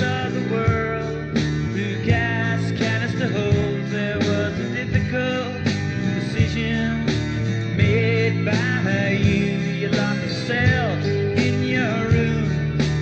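A rock band playing an instrumental passage: guitar, bass and drums, with a regular drum beat and bending, sliding guitar notes.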